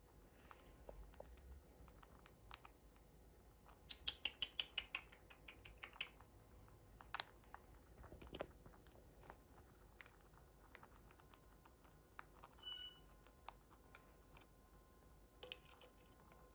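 Baby pineapple conures crunching pellets in their beaks: faint crisp clicks, with a quick run of about a dozen crunches around four to six seconds in and a few single ones after. A short high-pitched squeak about three-quarters of the way through.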